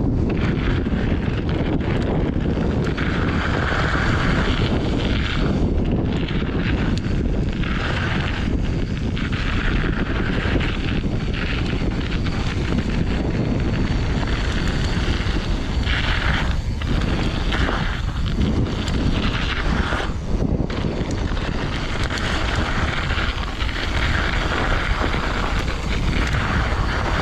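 Steady wind buffeting on the microphone of a fast-moving mountain bike, with the rush of knobby tyres rolling over dirt and patchy snow.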